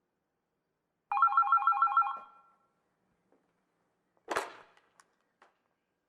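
A telephone-style electronic ring, a trill warbling between two pitches about six times a second for about a second. About two seconds later comes one short noisy burst.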